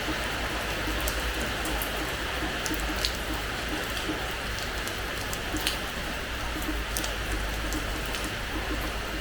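Rain falling on a terrace floor: a steady hiss of rain with scattered drop taps, and two louder drips about three and five and a half seconds in.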